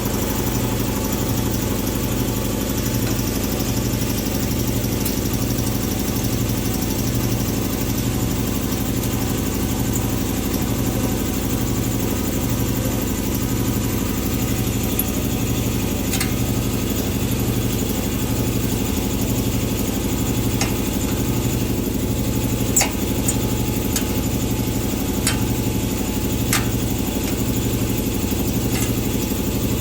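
A machine running steadily with a regular low throb, with a few light sharp clicks in the second half.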